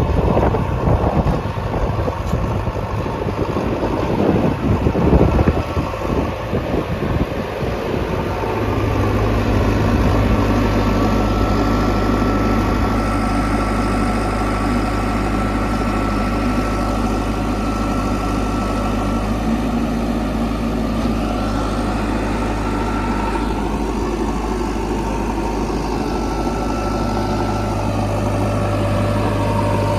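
Heavy diesel machinery: about eight seconds of rough, uneven rumbling with knocks, then the diesel engine settles into a steady low hum. A faint high whine comes and goes over it.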